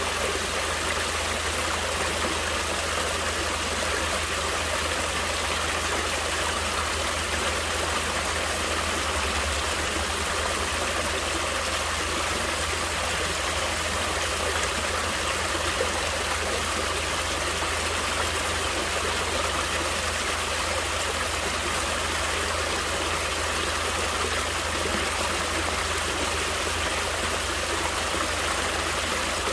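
Stream water flowing and splashing over rocks, a steady rushing sound with no change.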